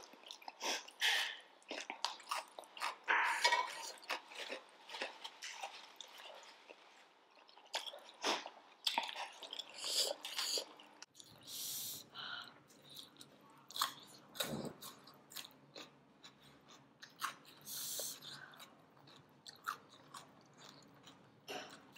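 Close-miked mouth sounds of eating momos (steamed dumplings): irregular chewing and biting, with small sharp clicks scattered throughout.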